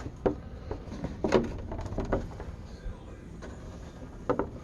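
A few light clicks and knocks of a painted polycarbonate RC car body being handled and turned over, over a low steady background hum.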